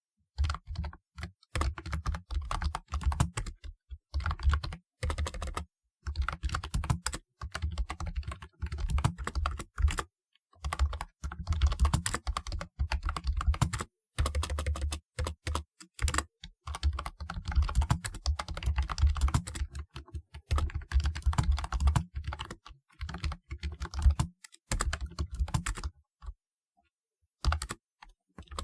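Typing on a typewriter-style keyboard with round keycaps: fast runs of clicky keystrokes in bursts of a few seconds, broken by short pauses.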